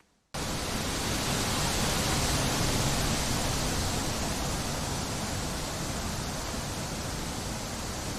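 Wind blowing as a steady, even hiss, cutting in suddenly just after a brief silence and easing slightly toward the end.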